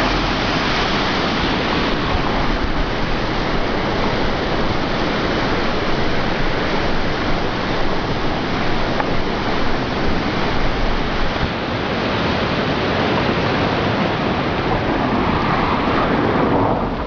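Loud, steady rush of a swollen river pouring through a fish weir, the water still running high after a typhoon.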